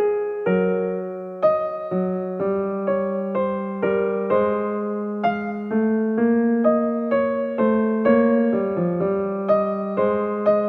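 Background music: a gentle keyboard melody played in single notes and chords, a new note about every half second, each one fading before the next.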